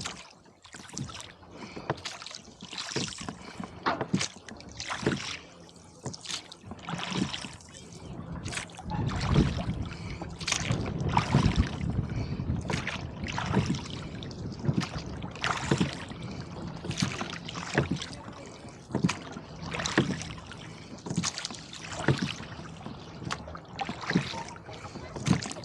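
Oars of a rowboat stroking through choppy lake water, with short splashes and water slapping about every second or so. A low rumble of gusty wind joins in from about nine seconds in.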